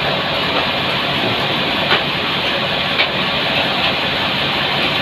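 Sawmill machinery running with a steady, dense noise, with a couple of sharp clicks partway through.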